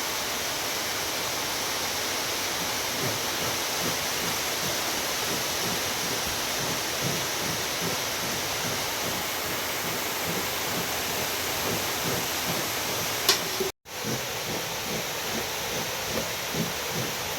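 Heavy rain falling steadily as an even hiss. About three-quarters through there is a sharp click and a split-second gap in the sound.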